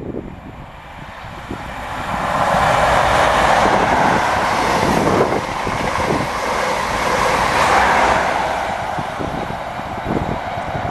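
A vehicle passing close by: a loud rushing noise that builds about two seconds in and holds for several seconds before easing, over a fluttering low rumble.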